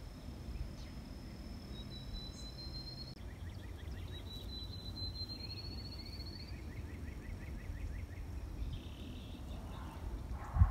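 Birds singing by a pond: a rapid trill that rises slightly in pitch, heard twice, alongside a series of short repeated chirps. A steady high whine stops about three seconds in, over a constant low rumble.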